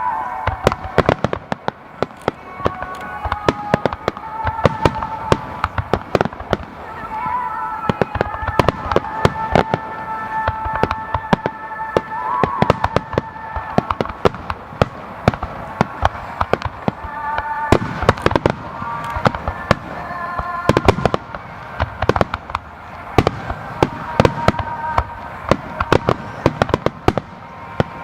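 Aerial fireworks display: a dense, continuous series of shell bursts, sharp bangs coming in quick clusters with crackle between them, with music playing underneath.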